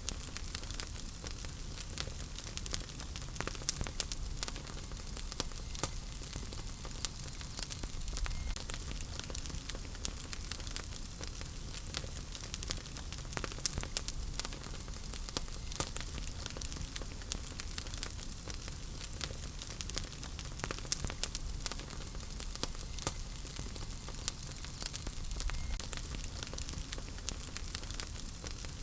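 Wood fire burning in a fireplace: a steady low rumble and hiss with frequent sharp crackles and pops scattered irregularly throughout.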